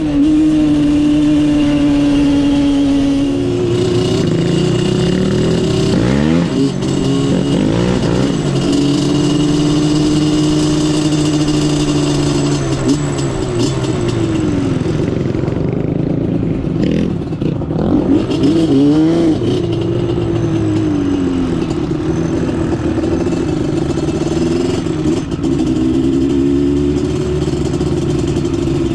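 Engines of off-road vehicles running on a trail, revving up and down again and again, with more than one engine heard at once, their pitch rising and falling.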